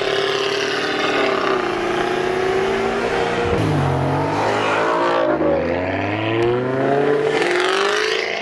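Sports car engine running at steady revs, then accelerating hard about three and a half seconds in, its pitch climbing and dropping back at each of several upshifts.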